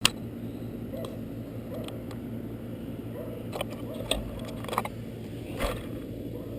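Handling noise on a small camera mounted on a quadcopter before flight: a sharp click at the start, then scattered small clicks and rubs over a low steady hum.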